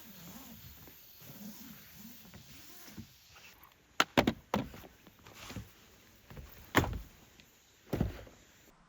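A string of sharp knocks and clunks, two close together about four seconds in and others near seven and eight seconds, after a low, wavering sound.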